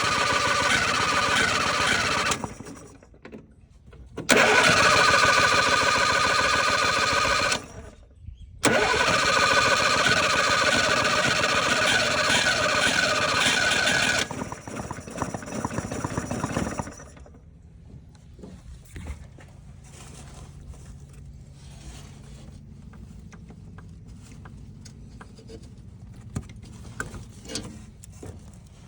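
The 1970 Mitsubishi Minica 360 GSS's small 360cc engine running loudly in three long stretches, each stopping sharply, then dropping away after about fourteen seconds to a much quieter low hum with scattered faint clicks.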